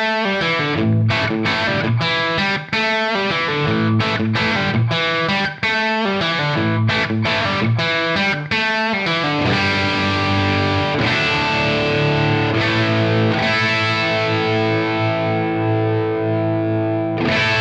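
Distorted electric guitar music: short, choppy chord hits for the first half, then held chords left to ring, stopping at the very end.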